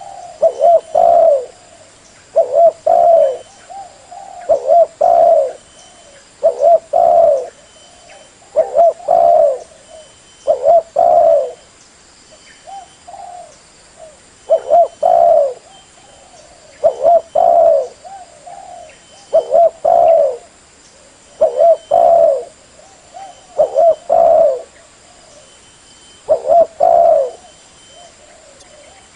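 Spotted dove cooing: a loud, low coo phrase of two or three notes repeated about every two seconds, with a softer, broken phrase about halfway through.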